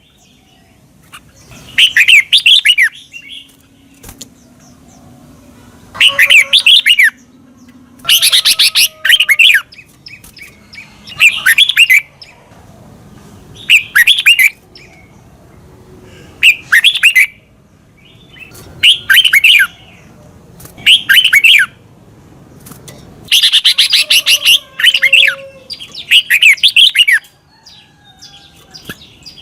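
Red-whiskered bulbul singing: short, bright, warbled phrases about a second long, repeated roughly every two seconds.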